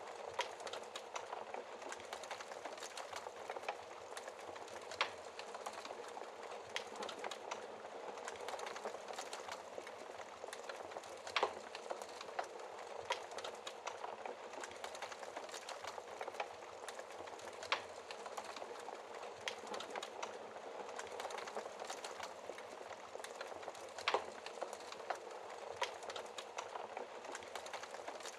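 Wood fire burning in a fireplace: a steady hiss of flames with constant small crackles and a few sharper pops of the logs.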